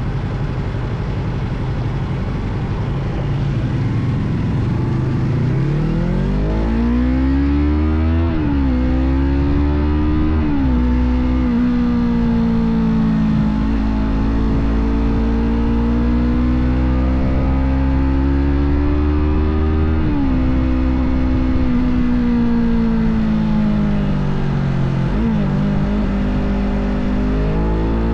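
A Yamaha sport bike's parallel-twin engine running hard: after a few seconds of low rumble its pitch climbs steeply, then holds high and steady, swelling and easing, with four brief sharp drops in pitch along the way.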